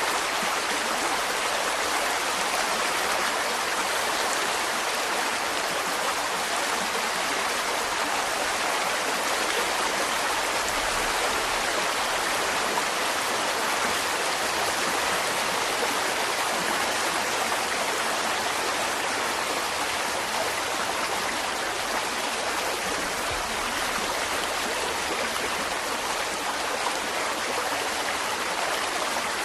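Mountain stream water rushing and splashing over rocks in a steady, even flow.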